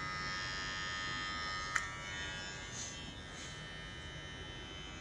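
Xiaomi Beard Trimmer 2's motor running with a steady electric buzz, with one sharp click about two seconds in.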